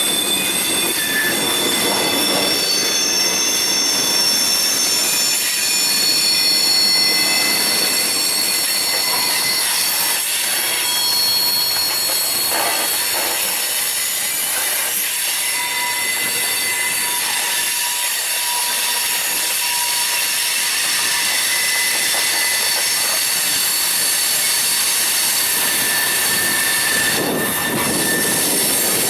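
Freight train cars rolling past with steel wheels squealing on the rails, several high steady squeal tones over a continuous rumble of wheels on track.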